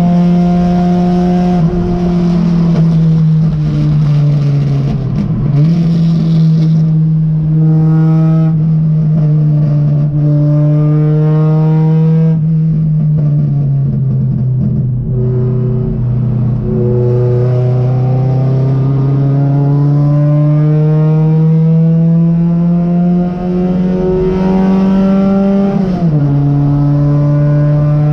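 Race car engine under load, heard from inside the stripped cabin. The revs dip briefly about five seconds in, sag to a low plateau through the middle, then climb steadily for several seconds before dropping sharply at a gear change near the end.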